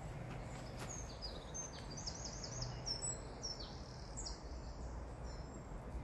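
A songbird singing one phrase of high, quick notes, with a fast run of repeated notes in the middle. It starts about a second in and stops a little after halfway.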